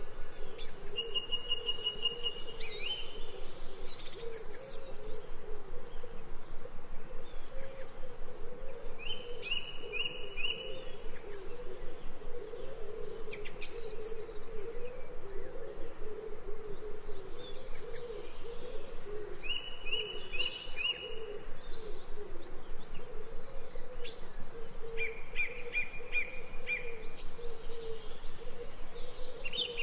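Ambient recording of several birds chirping: short series of three or four quick repeated high notes every several seconds, and brief high downward chirps, over a steady low wavering undertone.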